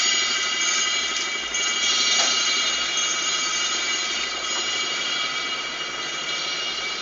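Motorcycle test-bed machinery running, a steady high-pitched whine of several tones held together over a rough hum, easing slightly about four seconds in.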